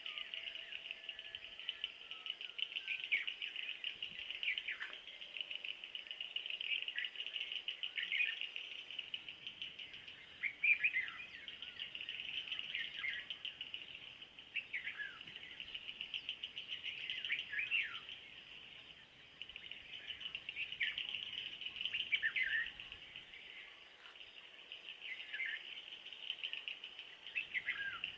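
Birds singing, with short falling whistled notes repeated every second or two, over a steady high-pitched insect chorus.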